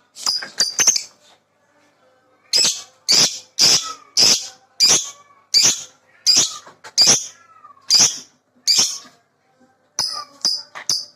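Lovebird doing its 'ngekek' call: a long series of loud, shrill, sharp calls about two a second, starting a couple of seconds in, then giving way to quicker, shorter chirps near the end.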